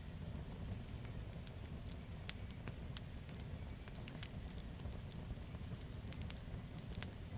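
Campfire burning, with a steady low rumble and frequent sharp crackles and pops of burning wood scattered throughout.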